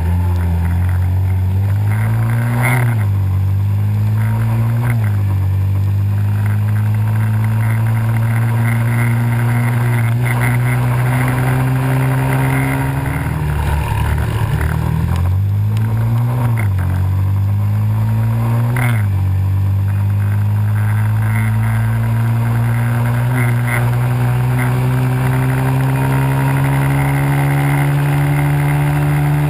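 Pit bike's small single-cylinder engine riding under load, its pitch climbing and dropping back sharply at each upshift, four times, then holding a long steady high run.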